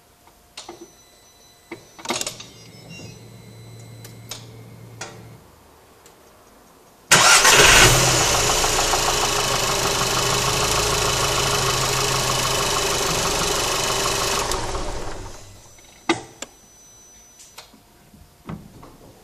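A few clicks, then a low hum, then a 1.8 TSI turbocharged petrol four-cylinder starts abruptly about seven seconds in. It runs steadily for about seven seconds and dies away when switched off, followed by a few more clicks.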